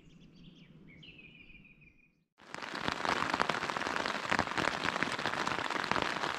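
Faint birdsong of a few high warbling calls, then about two and a half seconds in, rain falling on a tent: a dense, steady crackle of drops hitting the fabric.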